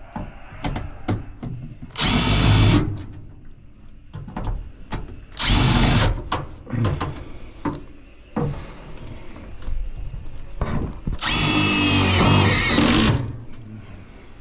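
Cordless power driver running in three bursts, two short ones of under a second and a longer one of about two seconds near the end, with short clicks and knocks of handling between.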